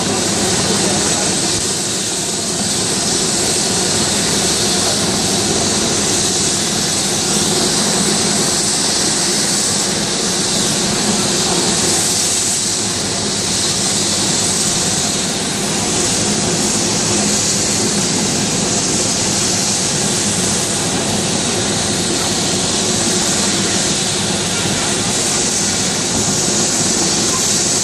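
Helicopter running steadily at close range: a high turbine whine and hiss over the even drone of the rotor.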